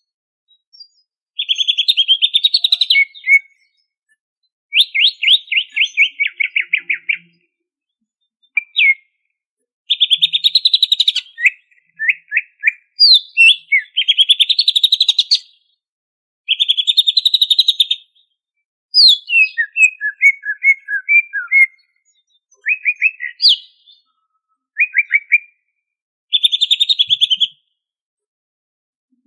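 A cucak ijo (green leafbird) singing in loud, rapid chattering phrases of one to two seconds, with fast trills and quick downward-sweeping notes, separated by short pauses. This is the busy song packed with varied phrases that keepers call full isian.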